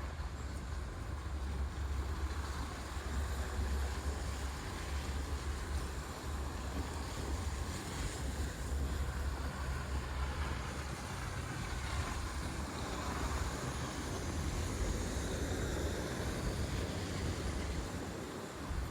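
Steady city street noise: passing traffic on snowy streets, with wind rumbling on the microphone.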